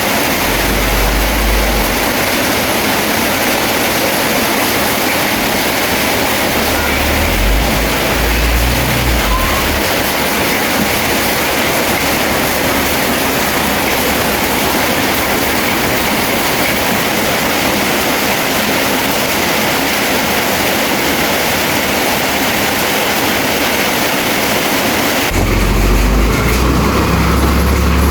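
Steady hiss of heavy rain with a bulldozer's diesel engine rumbling low underneath. The engine comes up louder and steadier for the last few seconds.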